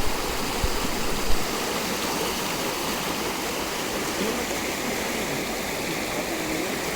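A flooded, fast-flowing river rushing steadily.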